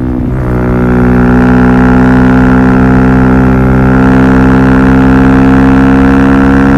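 Suzuki DR-Z400SM single-cylinder four-stroke engine running loud through a Yoshimura full exhaust system, holding steady revs. Its pitch dips briefly and recovers just at the start.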